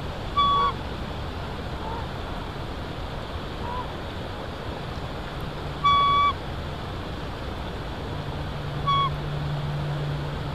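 Bird calls: three loud, short, flat horn-like notes, about half a second in, around six seconds and near nine seconds, with a few fainter short calls between, over a steady rushing background of wind. A low steady hum comes in near the end.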